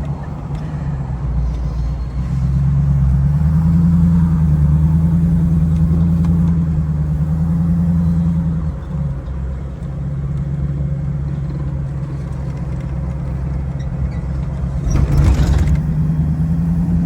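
Car engine running while driving. It picks up in pitch and loudness about two seconds in as the vehicle accelerates, and eases back around nine seconds. A brief rush of noise comes near the end.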